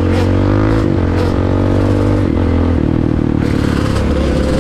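Dirt bike engine running under throttle, its pitch climbing during the first second and then holding fairly steady.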